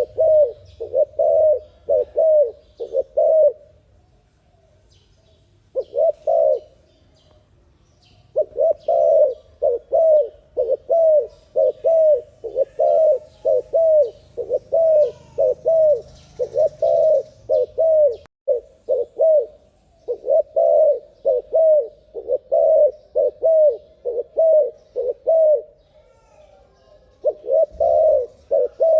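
Spotted dove (terkukur) cooing rapidly: short, downward-curving coos about two a second, in long runs with a few brief pauses.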